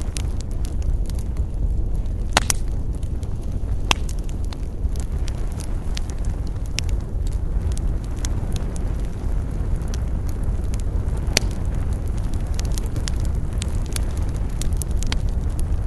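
Wood campfire burning with a steady low rumble and frequent sharp crackles and pops. A few louder snaps come about two and a half seconds in, about four seconds in, and near eleven and a half seconds.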